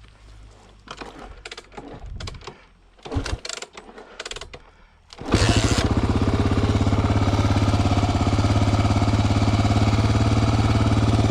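A few clicks and knocks, then about five seconds in a single-cylinder dual-sport motorcycle engine starts abruptly and settles into a steady, evenly pulsing idle.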